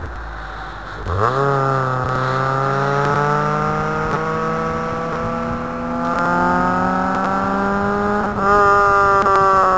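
Nissan 100NX's four-cylinder engine and exhaust driven hard on a race track. The engine speed jumps up about a second in, climbs steadily for several seconds, then jumps up again near the end.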